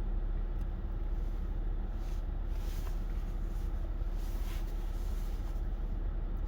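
Steady low hum with a constant background noise floor, and a few faint short soft noises near the middle.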